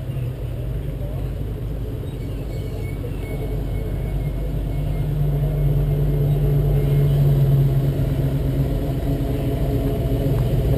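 Car engines: a stationary car idling with a steady low hum, getting louder about halfway through as other cars drive past close in front.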